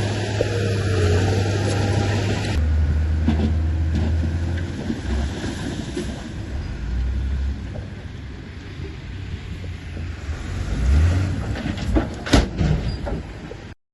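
Diesel engine of heavy earthmoving machinery running with a low drone, which changes abruptly about two and a half seconds in. A few sharp knocks come near the end, then the sound cuts off suddenly.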